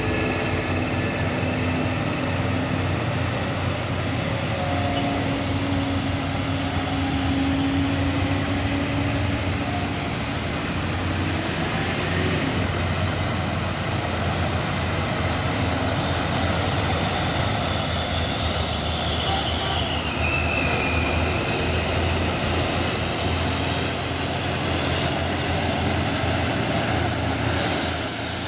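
Heavy diesel truck engines running steadily, with a high whine that drops in pitch about twenty seconds in.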